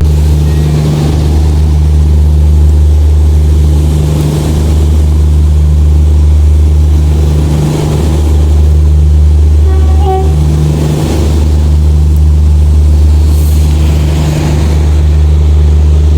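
Large railway diesel engine running steadily at idle close by, a loud, deep, even hum that dips briefly about every three and a half seconds.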